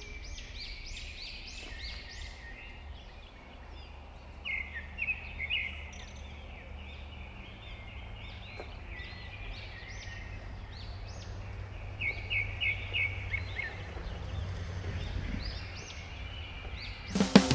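Songbirds singing: many quick, high chirps and short trills in clusters, busiest about five seconds in and again around twelve to thirteen seconds, over a steady low rumble.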